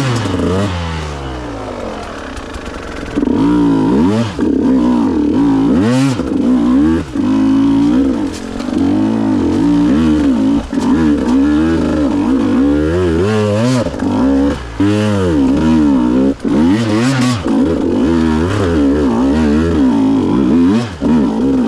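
KTM EXC 150 two-stroke enduro motorcycle ridden off-road, its engine revving up and falling back again and again as the throttle is worked. It runs a little quieter for the first few seconds, then louder from about three seconds in. A few sharp knocks cut through.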